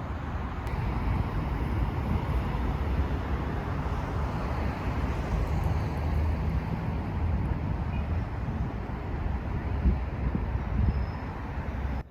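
Steady low rumbling noise with a hiss above it, stopping abruptly at the end.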